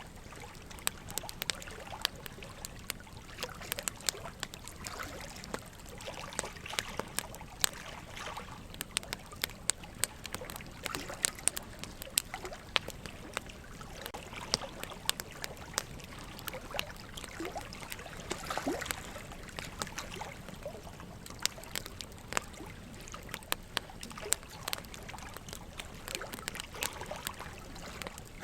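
Burning logs crackling, with frequent sharp, irregular pops, over a steady trickle of running water.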